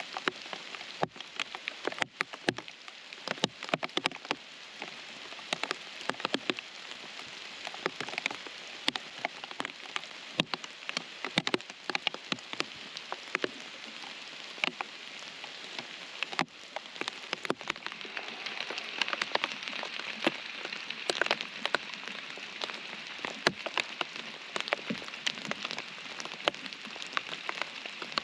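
Steady rain falling, with many separate drops tapping sharply close by over the hiss. The rain grows a little louder about halfway through.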